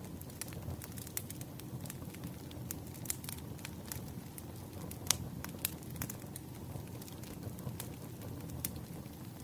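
Wood fire crackling: irregular sharp pops and snaps of burning firewood over a low steady rumble, one louder snap about five seconds in.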